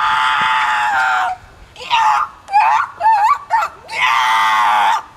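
A person screeching loudly in imitation of a bird call: two long, high held screeches with shorter warbling cries between them.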